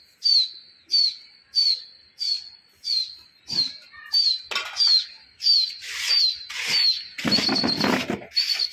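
A small bird calling over and over, a short, sharp, slightly falling high note about every two-thirds of a second. About seven seconds in, a second of rough noise partly covers the calls.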